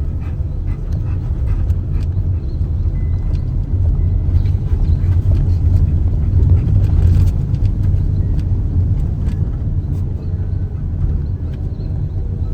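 Campervan driving over a rough road, heard from inside the cabin: a steady low rumble with scattered small rattles and knocks. It grows louder in the middle and eases off again.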